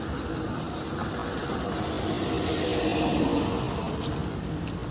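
Road traffic: a steady wash of vehicle engine and tyre noise, swelling slightly about three seconds in.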